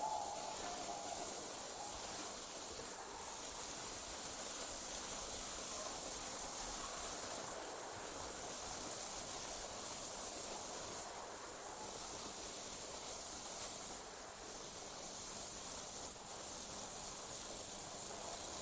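Night insect chorus: a steady, high-pitched trill that drops out briefly about five times, every two to four seconds, with a faint hiss of night air beneath.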